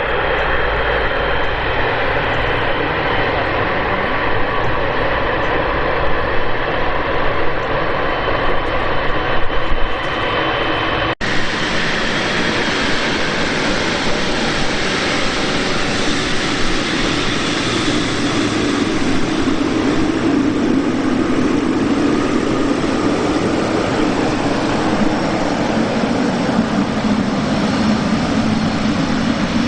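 Jet engines of a Boeing 777 freighter running steadily, with its twin GE90 turbofans. About eleven seconds in the sound breaks off abruptly at an edit and resumes. In the later part a lower drone grows stronger.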